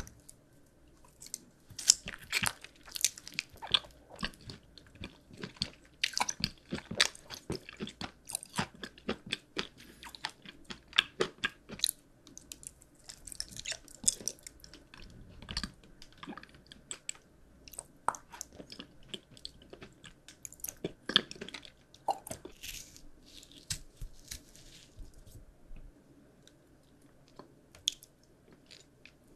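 Crunchy candy being chewed close to the microphone: a dense run of sharp crackling crunches that thins to a few scattered ones near the end.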